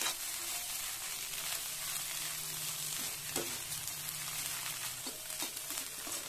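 Scrambled egg and onion frying in oil with chili powder in a kadai, a steady sizzle, while a steel spatula stirs and scrapes them round the pan. A few sharp clinks of the spatula on the pan come about three and five seconds in.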